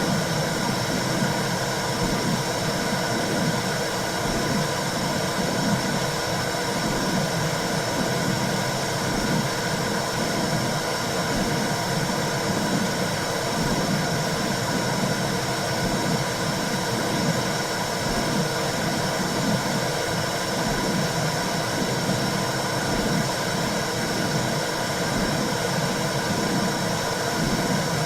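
Womb sound for calming a newborn: a steady, even whooshing hiss with a low, rhythmic pulsing underneath.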